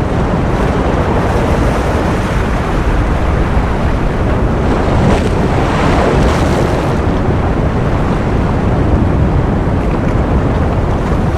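Ocean surf: a continuous, steady wash of wave noise that swells slightly around the middle.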